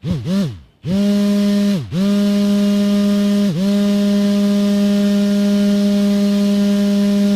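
Small DC motor of a homemade fan-type wheat cleaning machine, switched on and off in quick starts that each rise and fall in pitch, then running steadily with an even electric hum. About two seconds in it nearly stops and spins back up, and it slows briefly again a second and a half later.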